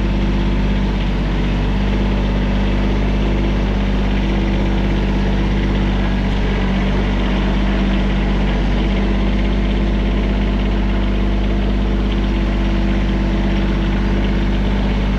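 TYM tractor-loader-backhoe's diesel engine running at a steady speed.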